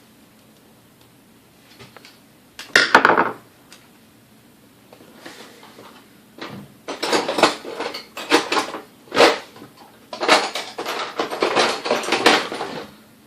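Metal clattering, rattling and scraping from handling the Sunbeam Mixmaster Model 12 and tools while its cord connection is opened up: one short burst about three seconds in, then two longer bouts of rattling in the second half.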